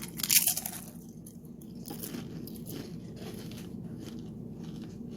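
Tortilla chips being bitten and chewed close to the microphone: one loud crunch near the start, then a steady run of softer chewing crunches, two or three a second.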